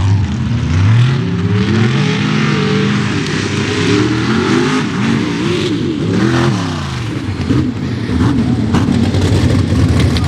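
Mega mud truck engine revving hard, its pitch climbing and dropping over and over, then easing into a steadier, rougher drone near the end.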